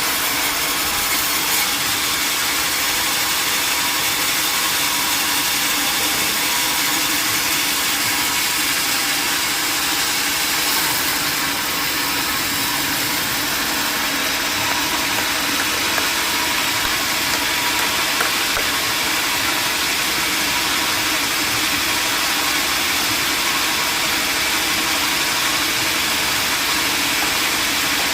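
Sawmill machinery running steadily, a constant mechanical drone with no breaks.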